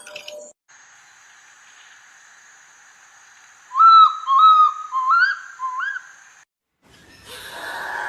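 A bird calling: four short whistled notes in a row, each bending upward at its end, over a faint steady hiss. The sound cuts off suddenly about six seconds in.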